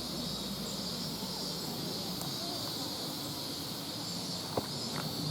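Steady, even drone of a summer insect chorus, with a low hiss beneath it and one sharp click about four and a half seconds in.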